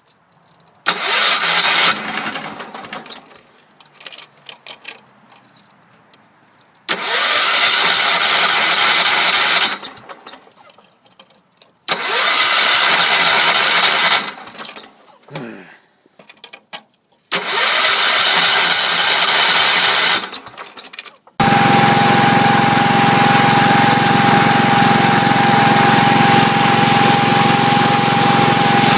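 A Wheel Horse C-105 garden tractor's engine is cranked by its starter in four tries of a few seconds each, hard to start in the cold. About two-thirds of the way through it catches and keeps running steadily, with a steady high tone over the engine sound.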